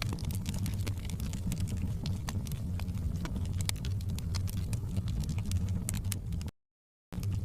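Wood fire in a fireplace crackling, with frequent sharp pops over a steady low rumble of burning. The sound cuts out completely for about half a second near the end, then resumes.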